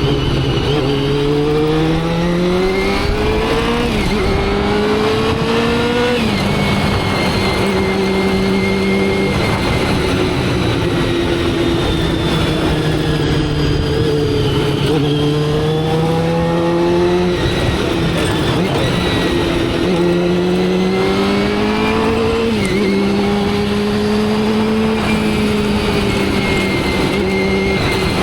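Motorcycle engine pulling through the gears: its note rises and drops back at upshifts about four and six seconds in, holds steady while cruising, then climbs again with further upshifts a little past halfway and about four-fifths through.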